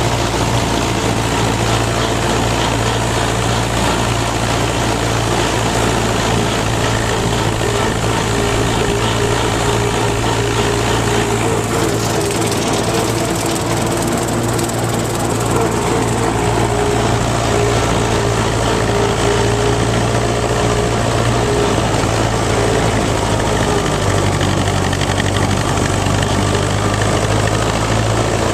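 Fordson Super Major tractor engine running steadily at working speed. Its pitch wavers in the middle and again near the end, which the owner puts down to a bad fuel filter starving it.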